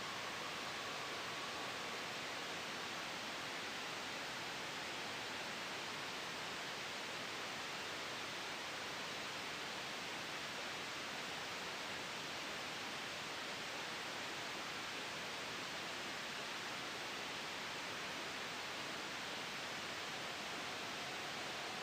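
Steady white noise blended with a soft wind hiss: an even, unchanging hiss that is strongest in the upper range.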